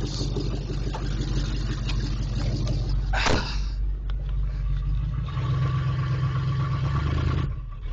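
1977 Oldsmobile Delta 88's engine running just after a cold start, loud. Just past the middle its note grows heavier for about two seconds, then eases back near the end.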